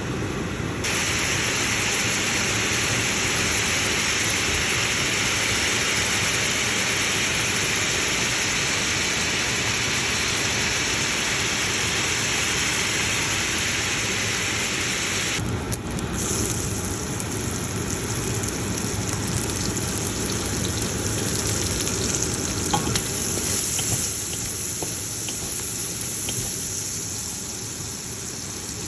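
Food sizzling steadily in hot oil in a pan, with a brief break about halfway through and a few light clicks later on.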